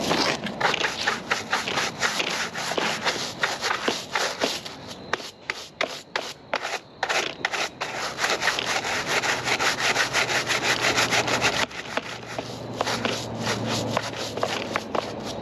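Rapid, irregular rubbing and scraping strokes against a surface, with a sparser stretch about a third of the way in.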